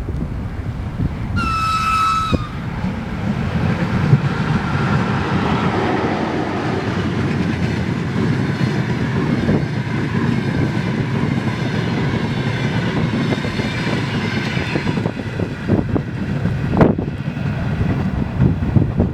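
Double-deck passenger train rolling past, a steady rumble of wheels with clacking over the rail joints. About a second in, a high-pitched train horn sounds for about a second.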